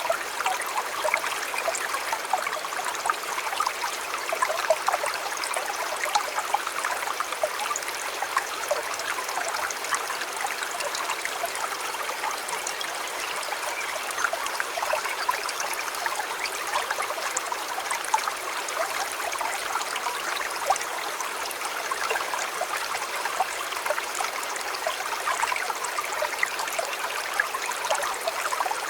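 A small river or stream running over stones: a steady babbling and trickling with many little splashes and gurgles.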